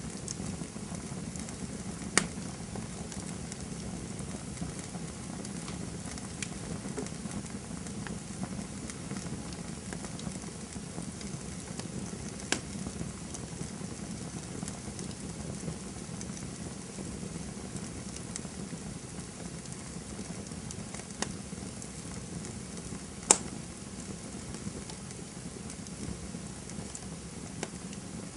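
Campfire burning with a steady hiss and scattered sharp wood crackles and pops, the loudest a single crack a little past the 23-second mark.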